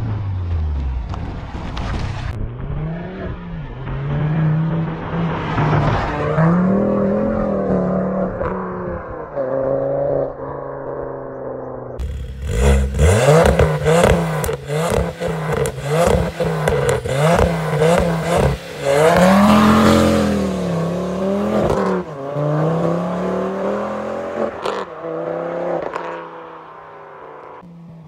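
Ford Focus ST225's turbocharged 2.5-litre five-cylinder engine revving up and down repeatedly. In the middle there is a run of sharp exhaust pops and cracks, about two a second, before the engine dies back down near the end.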